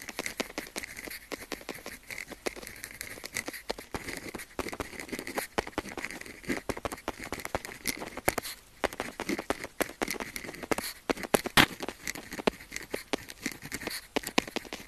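Pen tip scratching across paper in quick, irregular strokes of writing, with many small ticks.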